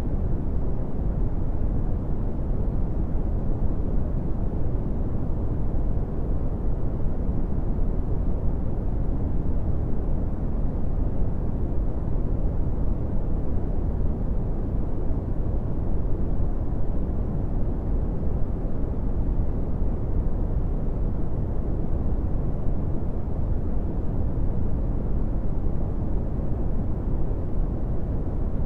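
Brown noise: a steady, deep rushing hiss, strongest in the bass and dull in the treble, with no changes.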